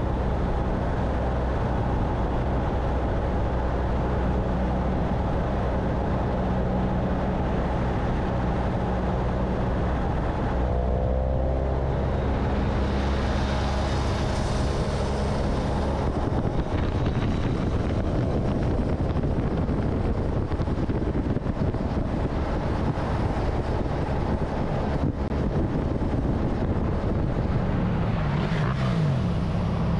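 Motorcycle engine running steadily on the move, with a rushing noise over it. The engine note changes pitch about eleven seconds in and again near the end.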